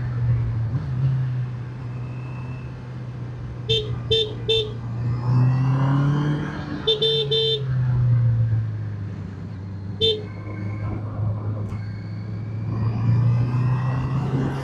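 Motorcycle engine running under way, its pitch rising and falling with the throttle, with short horn beeps: three quick toots about four seconds in, three more about seven seconds in, and a single one about ten seconds in.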